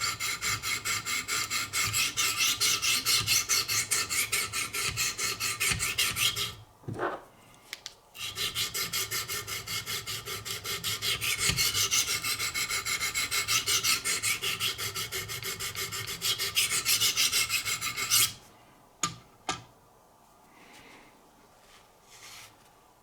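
Knife edge being sharpened on a Wicked Edge guided-rod system, the stones rasping along the steel in quick, even strokes. The strokes pause briefly about seven seconds in, resume, then stop about eighteen seconds in, followed by a couple of light clicks.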